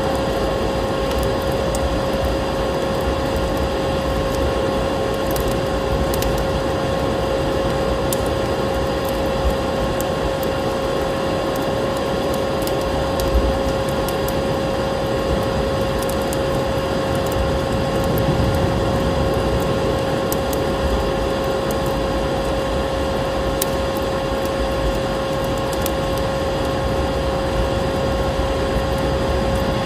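Steady vacuum cleaner motor hum holding one pitch throughout, over a dense rushing noise with scattered small crackles, as from a fireplace fire and snowstorm wind mixed in.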